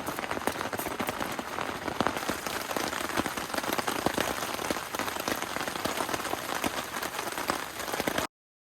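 Steady rain, with many separate drops striking close by. It cuts off abruptly near the end.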